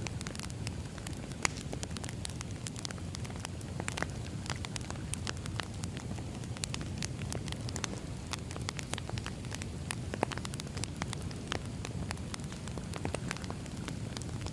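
Firewood burning, with a steady low rumble under irregular crackles and pops, a few louder snaps among them.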